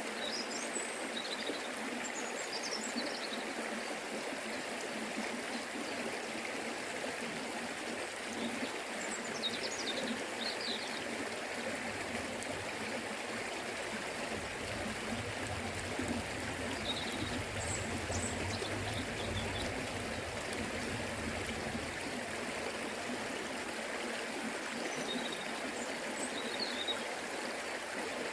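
A forest river running steadily, its water rushing and gurgling in an even, unbroken wash, with a few short high chirps now and then.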